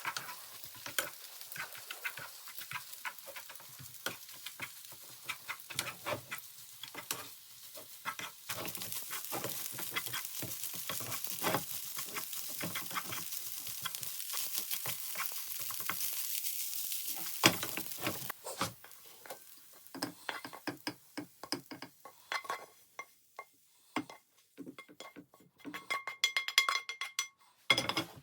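Many small clicks and clinks, with a steady hiss from about 8 to 18 seconds in and a run of ringing clinks near the end.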